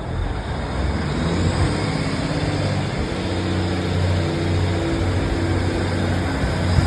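A large vehicle's engine running close by, its low note shifting in pitch. It gets suddenly louder at the start.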